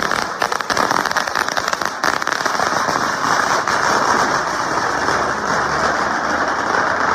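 Fireworks crackling: a dense, rapid, continuous popping, with sharper separate cracks in the first two seconds that run together into a steady crackle.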